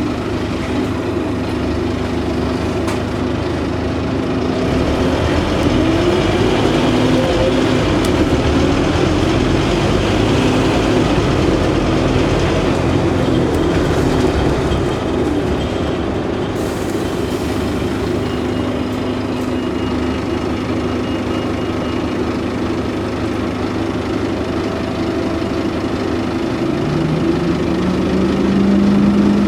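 Scania N230UD OmniCity double-decker bus running, its diesel engine and ZF gearbox giving a steady drone. Near the end the engine note rises and then holds as the bus pulls away or accelerates.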